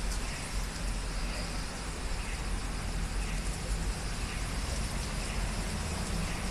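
Heavy rain from a sudden downpour, a steady hiss with a low rumble beneath it.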